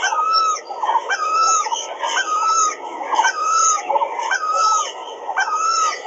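Bird calls repeating in a steady pattern about once a second, each one a short held note with quick upward flicks and higher chirps above it.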